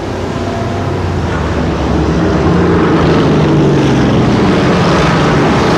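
Several racing trucks' small-block V8 engines running on the track at once, their engine notes layered over one another. The sound grows a little louder in the first second, then holds steady.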